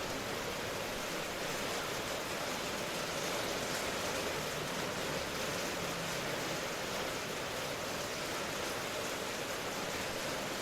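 Steady rain: an even, unbroken hiss with no single drops or gusts standing out.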